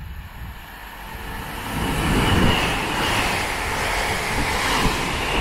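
Northern Class 331 electric multiple unit running through the station at speed without stopping: a low rumble that swells into a loud rush of air and wheels on rail as it draws level about two seconds in, then carries on steadily as the carriages go by.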